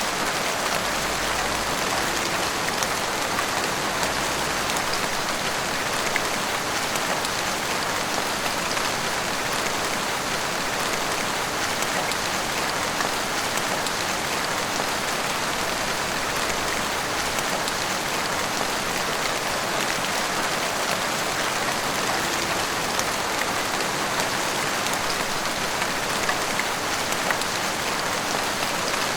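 Heavy rain pouring steadily, hitting rooftops and the street in a dense, even patter.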